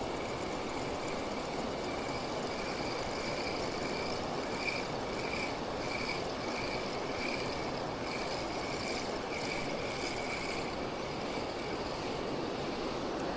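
Steady rush of water pouring over a weir. Over it, a faint high-pitched whine pulses about every half second from a few seconds in until near the end.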